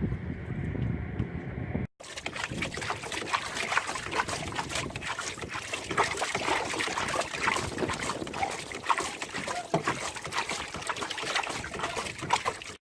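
Water trickling and splashing close by, a dense crackle of many small splashes, starting abruptly about two seconds in after a short low rumble.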